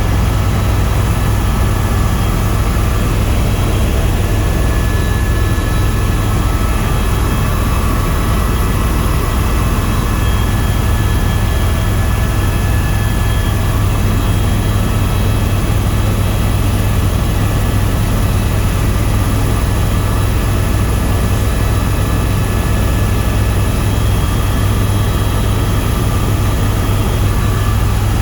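Tour helicopter in flight: the rotor and turbine make a loud, steady drone with a heavy low hum and a few faint steady whines higher up.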